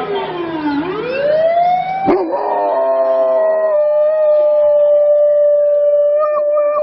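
A dog howling in long drawn-out notes: one note slides down and back up, then, after a sudden break about two seconds in, a single howl is held steady for several seconds and wavers slightly near the end.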